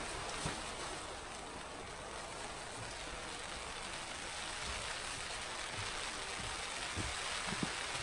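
Steady hiss of rain with wind, and a few soft low gusts buffeting the microphone in the second half.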